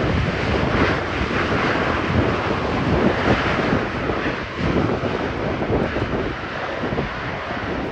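Jet airliner engines rushing, heard under heavy gusty wind buffeting the microphone.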